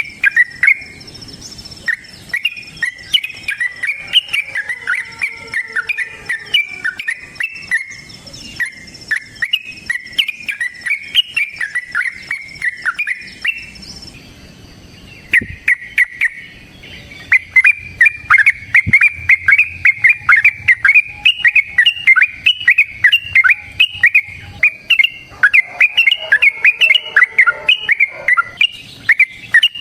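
Yellow-vented bulbul (trucukan) singing a long, rapid, rolling chattering song, breaking off about halfway and starting again.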